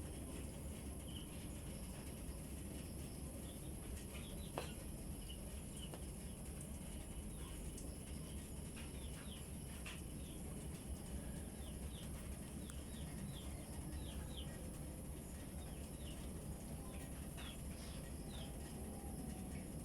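Small birds chirping: short, high, downward-sliding chirps, sparse at first and then in quick runs of several at a time, over a steady low background rumble.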